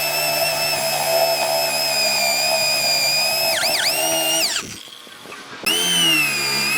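High-speed electric power tool whining steadily, dipping in pitch twice as it loads up, then winding down and stopping for about a second before starting up again.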